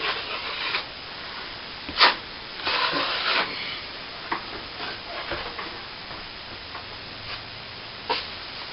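Steel plastering trowel scraping over wet cornice cement on a plasterboard ceiling patch in short strokes, floating it flat. A sharp click comes about two seconds in and another near the end.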